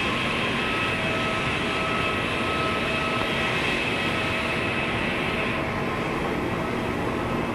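Jet airliner engines running with a steady rushing roar and a high, even whine.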